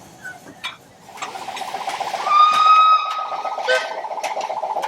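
Steam locomotive whistle blowing loudly for about a second, over a fast, even pulsing that builds up from about a second in.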